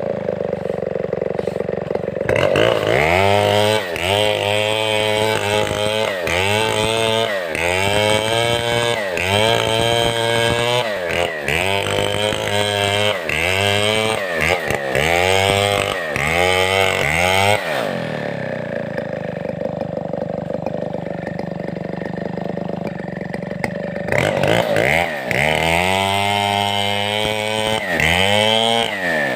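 Large Stihl 070-class two-stroke chainsaw revved in short surges, rising and falling about once a second for some fifteen seconds. It then settles to a lower, steady run for about six seconds before surging again near the end.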